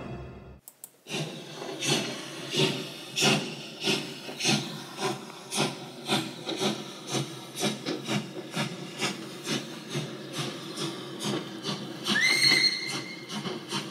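Steam-train chuffing in an even rhythm of about two chuffs a second, with a train whistle about twelve seconds in that rises and then holds.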